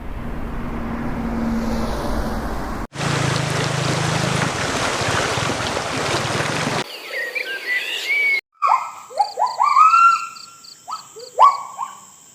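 Tropical forest sounds in several spliced segments. First comes about seven seconds of steady noise, then short bird chirps, and then, from about eight seconds in, repeated calls sliding upward in pitch over a steady high insect whine and pulsing.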